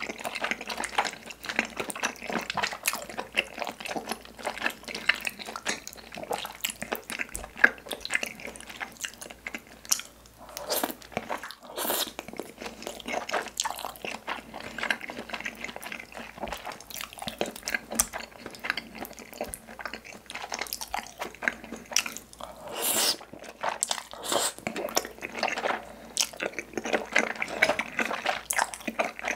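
Close-miked wet chewing and mouth sounds of spicy tteokbokki with melted cheese and chewy glass noodles: a steady run of small clicks and squelches, with a few louder bursts.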